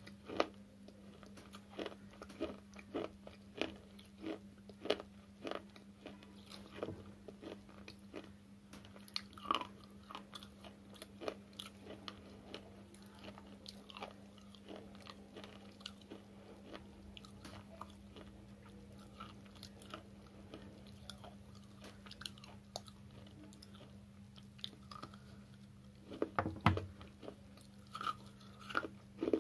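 Dry slate chips crunched between the teeth: a quick run of sharp, crisp cracks as pieces are bitten off and chewed, thinning out partway through, then a burst of louder bites near the end. A steady low hum runs underneath.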